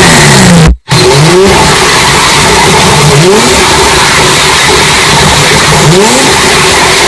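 SUV engine revving up in repeated climbs, each a rising pitch, through heavily overdriven, distorted audio. There is a brief dropout just under a second in.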